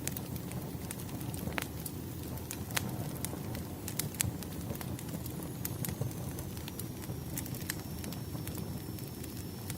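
Wood bonfire burning low as it dies down: a steady low rumble of flame under sharp, irregular crackles and pops from the burning wood. A faint high whistle comes in about halfway through.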